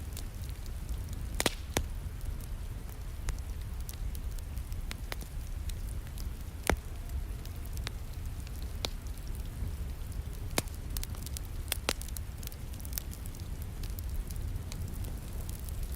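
Wood fire crackling, with scattered sharp pops, the loudest a little before halfway through, over a steady hiss of falling rain.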